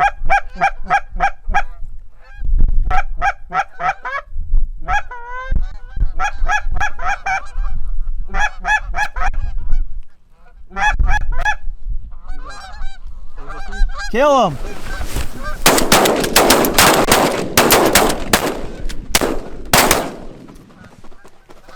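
Canada geese honking in quick repeated runs, loud and close, for about fourteen seconds. Then comes a volley of shotgun blasts from several guns, about a dozen shots packed into five seconds.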